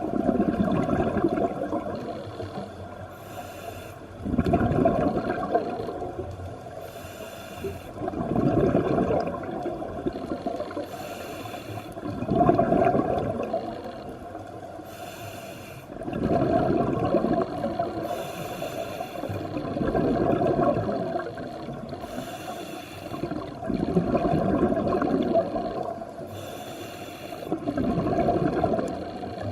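Scuba diver breathing through a regulator underwater: a short hiss on each breath in, then a longer rush of bubbles on each breath out, repeating about every four seconds.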